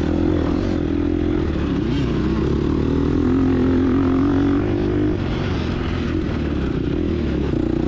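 Gas Gas EX250F's 250cc four-stroke single-cylinder engine running under throttle while riding, its pitch rising and falling. About five seconds in the engine note drops a little.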